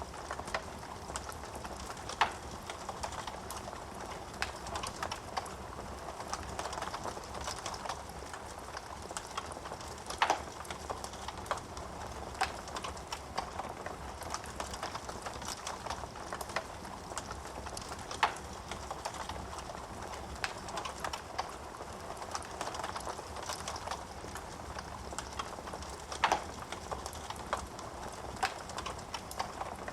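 Wood fire burning in a fireplace: a steady hiss of flames with frequent small crackles, and four louder pops of the wood spaced about eight seconds apart.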